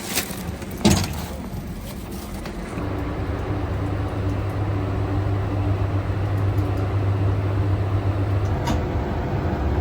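Train getting under way: two sharp clacks in the first second, then a steady low hum from the locomotive that comes in about three seconds in and grows slightly louder.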